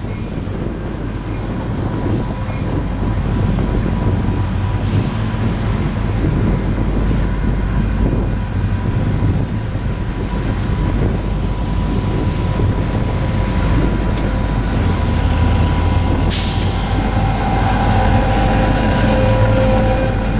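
Freight train rolling past, its cars rumbling steadily over the rails with thin high wheel squeals throughout. There is a single sharp clank about sixteen seconds in, and a diesel locomotive's engine hum comes up near the end.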